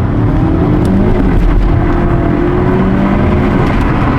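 Car engine running hard at high revs during a wheelspin, a loud continuous drone whose pitch slowly rises and falls, with the tyres (Michelin Pilot Sport 4S) spinning.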